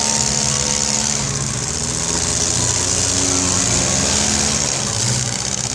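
Engines of demolition derby cars running and revving, their pitch rising and falling.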